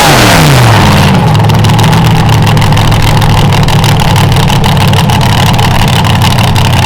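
A pulling vehicle's engine coming off full throttle, its pitch falling quickly in the first second, then running steadily at a low idle.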